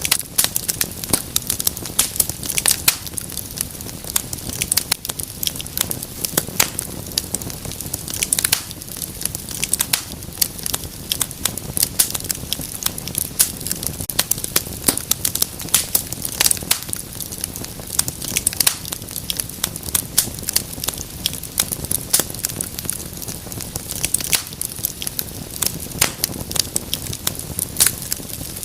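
Wood fire crackling in a fireplace: many sharp irregular pops and snaps over a steady low hiss of burning.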